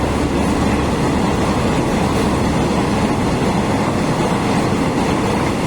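Train running past, a steady loud rumble of its wheels on the rails.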